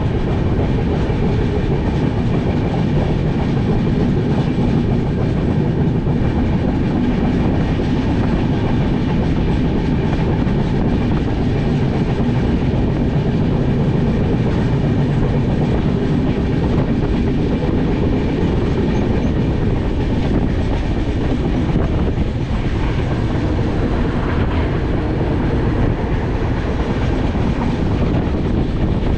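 Passenger train running at speed on the rails, a steady, unbroken rumble.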